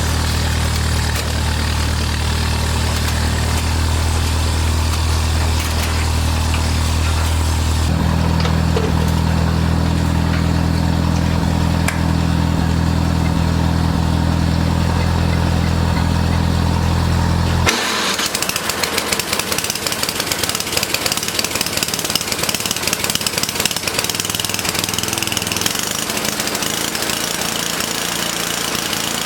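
Engine running steadily. About eighteen seconds in the sound changes abruptly to a lighter, clattering engine sound with more hiss.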